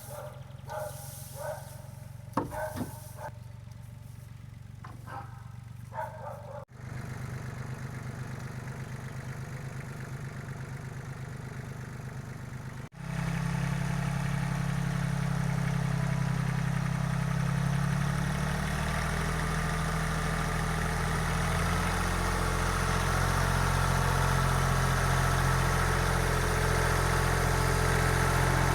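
Yanmar FX20D compact diesel tractor engine running steadily. A few short pitched sounds come over a low hum in the first six seconds. The sound breaks off twice, and after the second break, about 13 seconds in, the engine is much louder and steady.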